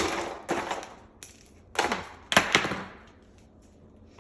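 A handful of sudden knocks and clatters, about four in the first two and a half seconds, each dying away quickly.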